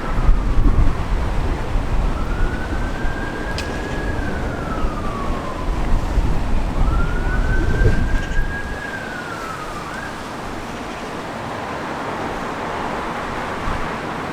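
Emergency vehicle siren in a slow wail, rising, holding and falling about every four to five seconds, then stopping about ten seconds in. Under it, a low rumble of passing road traffic, loudest in the first eight seconds.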